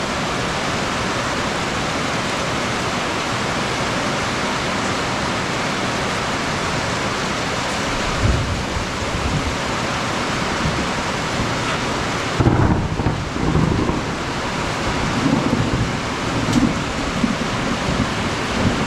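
Heavy, steady rain, with low rumbles of thunder about eight seconds in and again around twelve to fourteen seconds.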